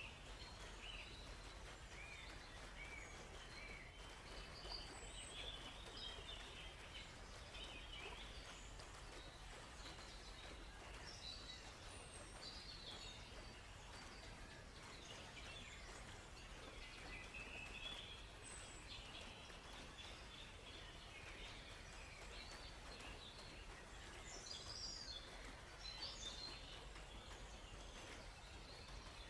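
Several birds chirping and trilling in short, scattered calls, over a faint steady hiss.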